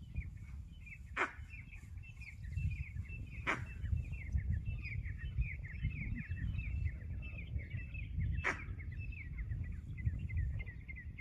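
Birds chirping in a quick, continuous chatter of short high notes, over a low rumble, with three sharp clicks.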